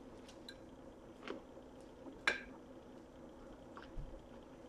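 Faint chewing between bites of pizza: a few soft mouth clicks and smacks, the strongest a little over two seconds in, over quiet room tone.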